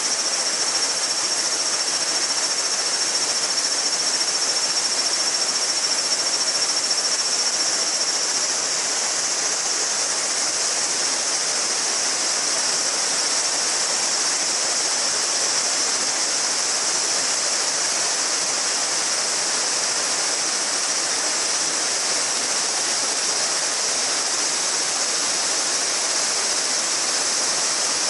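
Mountain river babbling steadily, with a dense chorus of cicadas singing high above the water. One steady cicada tone within the chorus drops out about eight seconds in.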